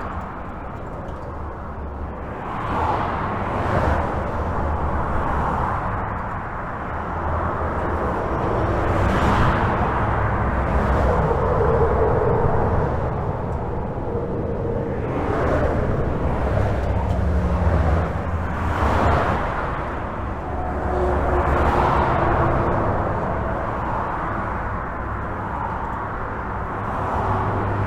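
Steady highway traffic heard from under a bridge: a continuous rumble of tyres and engines, with individual vehicles swelling past every few seconds.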